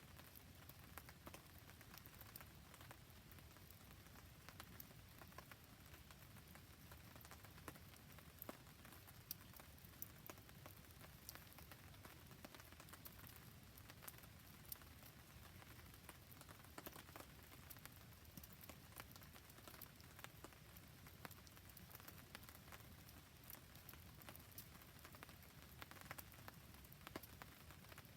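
Faint steady rain pattering, with a wood fire crackling: many scattered sharp ticks over an even hiss.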